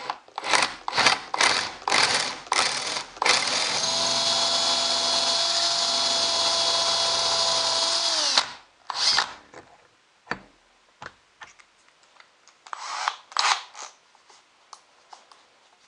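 Electric drill boring into a cedar block, switched by a foot pedal. It starts in about six short bursts, runs steadily with a constant whine for about five seconds, then spins down. A few shorter bursts follow.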